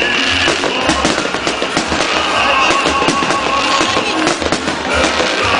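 Fireworks salute: a dense run of bangs and crackling from bursting shells, with music playing underneath.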